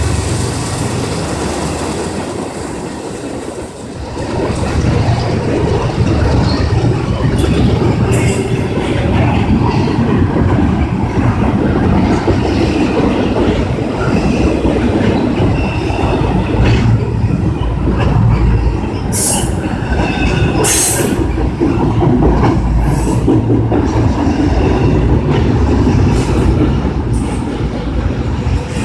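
Freight train cars rolling steadily past with a continuous rumble and clatter of wheels on rail, and a few brief high wheel screeches about two-thirds of the way through.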